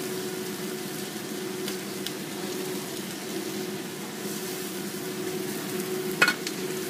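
Yardlong beans sizzling as they stir-fry in a wok, over a steady low hum, with one sharp clink about six seconds in.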